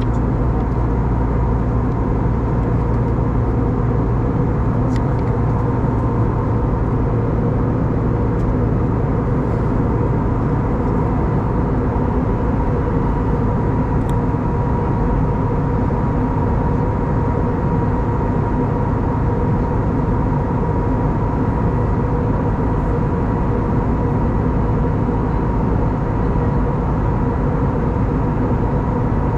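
Steady cabin noise inside an Airbus A320neo in flight: the rush of airflow and the hum of its CFM LEAP-1A engines, with a few faint steady tones and no change in level.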